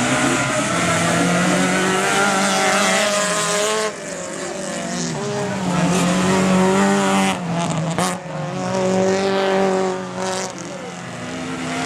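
Autocross race car engines revving hard, the pitch climbing and falling again and again through gear changes and lifts off the throttle. The level drops suddenly about four seconds in and again about eight seconds in.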